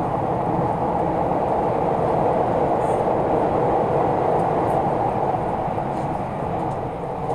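Passenger train running at speed: a steady, unbroken rumble.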